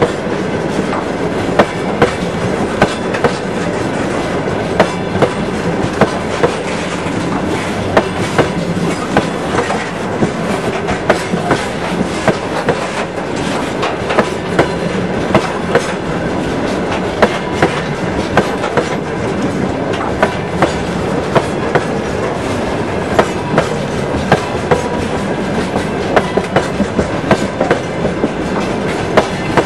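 Freight train of open gondola wagons rolling past close by: a steady rumble of steel wheels on the rails, with sharp clicks, often in close pairs, as the wheelsets cross the rail joints.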